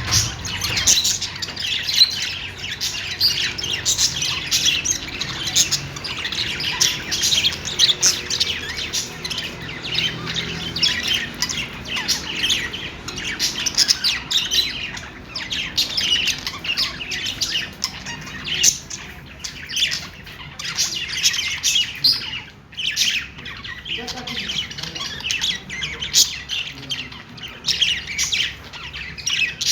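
Budgerigars chattering: a dense, busy stream of quick chirps, warbles and squawks, with a brief lull about two-thirds of the way through.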